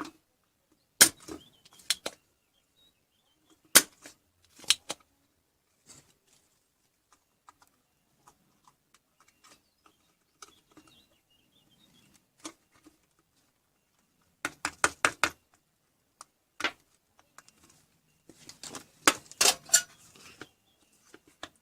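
Scattered sharp clicks and knocks. Just past the middle comes a quick run of about six clicks, and near the end a busier cluster.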